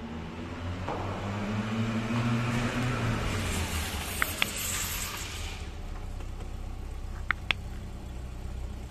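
Volkswagen Golf GTI Mk1's 1.6-litre four-cylinder engine revving up as the car pulls in, with a rushing hiss in the middle, then running more steadily at low revs. Two pairs of sharp clicks, one around the middle and one near the end.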